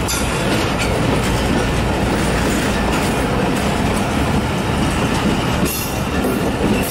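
Passenger coaches of a departing express train rolling past close by: a steady rumble of wheels on rail, with a few sharp clicks of the wheels over the track.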